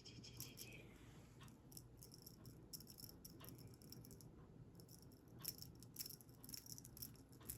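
A cat toy rattling faintly now and then, with small high clicks and jingles.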